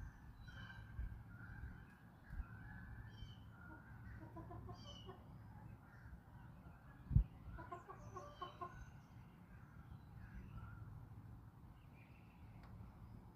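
Backyard chickens clucking in two short runs of quick notes, with small birds chirping throughout. About seven seconds in there is a single low thump, the loudest sound in the stretch.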